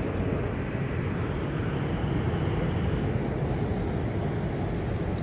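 Steady low rumble of distant jet aircraft noise, mixed with wind on the microphone.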